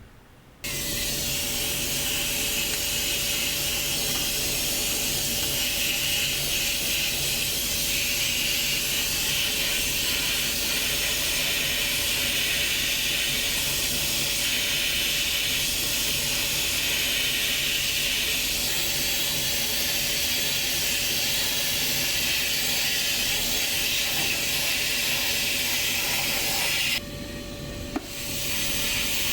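A steady, loud hiss from a workshop tool or compressed air, with a faint steady hum under it. It stops for about a second near the end and then starts again.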